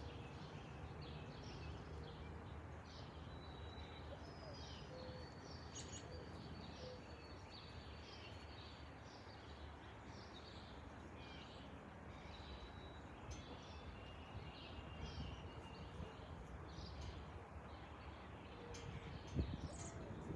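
Small birds chirping and calling over a faint, steady low rumble of outdoor background noise, with a brief bump near the end.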